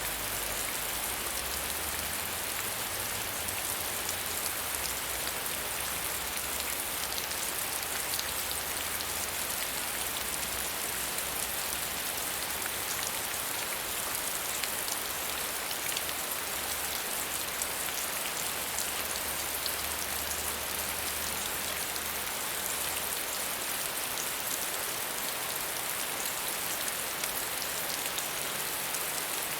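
Steady medium rainfall: a constant hiss of rain with fine scattered drop ticks and no let-up.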